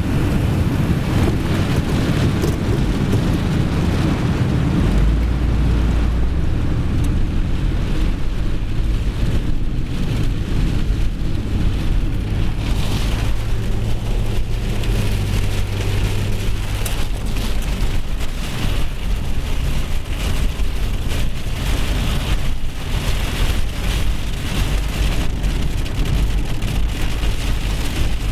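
Heavy rain pouring down steadily, with a dense patter of drops hitting a surface over a low rumble.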